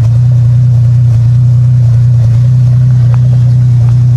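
An off-road truck's engine running at a steady speed: a loud, constant low hum that neither rises nor falls.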